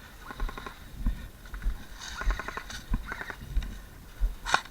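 Footsteps of a player walking, dull thumps at a steady pace of roughly one to two a second.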